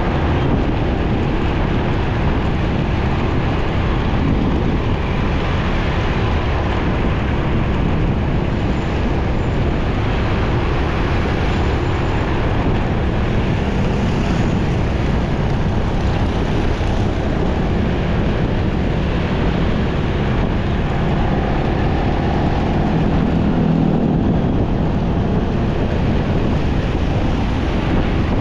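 Steady rumbling road and wind noise of a motorcycle being ridden through city traffic, with the bike's engine and passing vehicles under it. A faint engine tone rises out of the noise briefly near the end.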